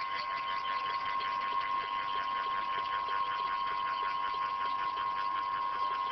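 Stepper motors of a CNC hot-wire foam cutter driving the wire through a foam wing core. They make a steady whine with a fast, even pulsing over it.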